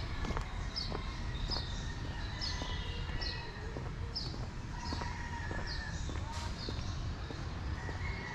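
A small bird repeating a short, high chirp that falls in pitch, about once a second, over a low, steady background rumble.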